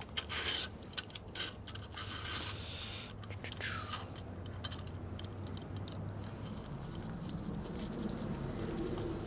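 Light metallic clicks and scraping from small bicycle parts being handled on the handlebar, with a brief falling squeak about three and a half seconds in. A steady low hum follows.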